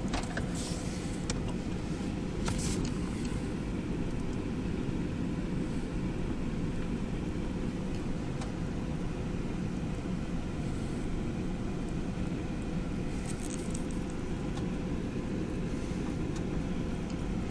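The van's engine running, heard from inside the cabin as a steady low rumble with a faint steady hum above it. A few light clicks sound in the first three seconds.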